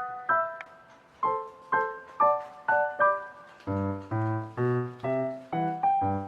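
Background music: a gentle piano melody played note by note, about two notes a second, with lower bass notes joining a little past halfway.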